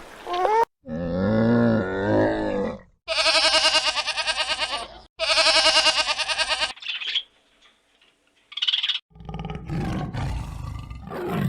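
A string of separate animal calls edited back to back: a short rising cry, a wavering call, two loud pulsing calls in the middle, then lower, rougher calls near the end.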